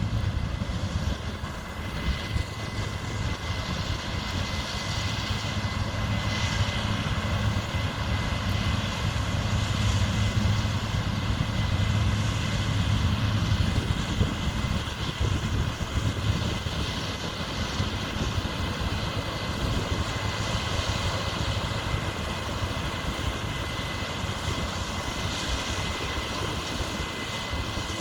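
Large diesel farm machinery running steadily under load, with a deep hum and a faint steady high whine; the sound swells slowly and then eases off.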